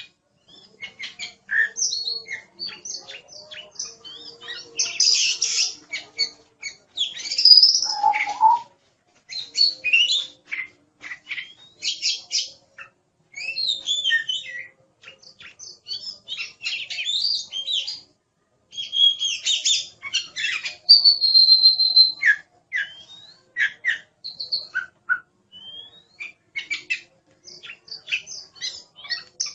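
Oriental magpie-robin (kacer) singing busily: a fast, varied run of short chirps, trills and whistled notes with brief pauses, and one longer held high whistle about two-thirds of the way through.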